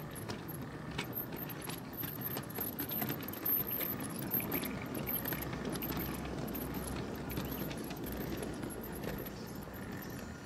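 Full-size railway train rolling along the track, with a continuous rattle and many irregular metallic clanks and clicks from wheels, couplings and wagons.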